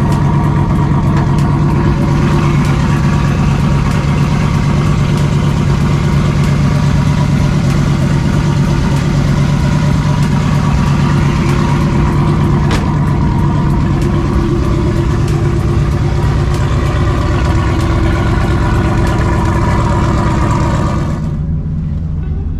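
Turbocharged pickup truck engine running steadily, a low, even drone with a hiss over it. Near the end the hiss cuts off suddenly and the sound gets a little quieter.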